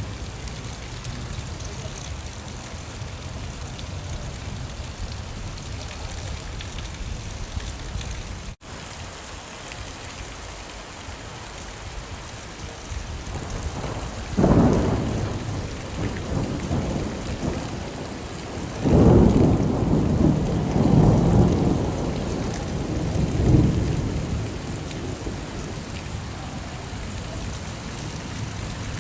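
Steady rain with thunder: a sudden clap about halfway through, then a longer rolling rumble a few seconds later that swells again near the end. The rain cuts out for an instant about eight seconds in.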